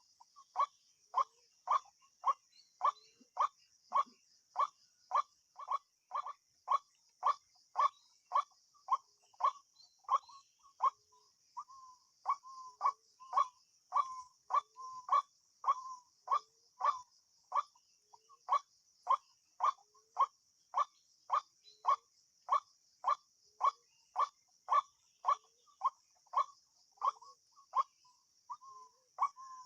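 A bird repeating a short, single-pitched call note about twice a second in a very even rhythm, pausing briefly about eleven seconds in. A steady, high insect drone runs behind it.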